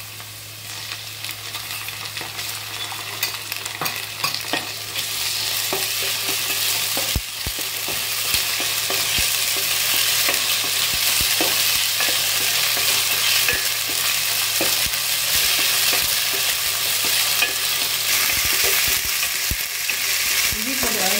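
Chopped onions and ginger-garlic paste sizzling in hot oil and ghee in a stainless steel pan, stirred with a wooden spoon that clicks and scrapes against the pan. The sizzle grows louder about five seconds in and stays strong.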